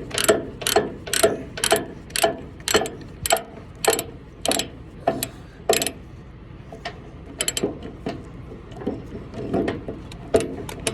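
Ratchet chain binder being cranked tight by hand on a load chain, its pawl clicking about twice a second with a short metallic ring. After about six seconds the clicks slow and come only now and then.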